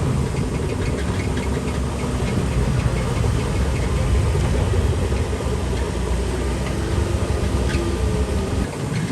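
Diesel engine of a Shantui DH17C3 Pro crawler bulldozer running steadily under load, with a light regular clatter, most likely from its steel tracks.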